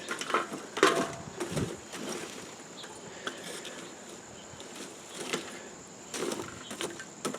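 Campfire coals being shifted around in a fire pit: scattered scrapes and knocks.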